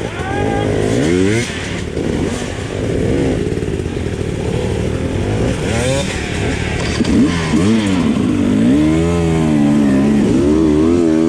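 Enduro dirt bike engine revving up and down as the throttle is worked on the trail, its pitch rising and falling every second or two.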